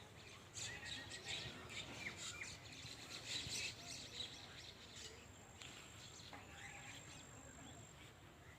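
A faint evening chorus of many small birds chirping as they settle to roost at sunset, a busy overlapping chatter of short high calls.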